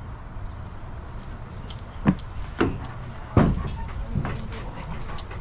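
Four sharp clinks and knocks spread over about two seconds, over a low steady background rumble.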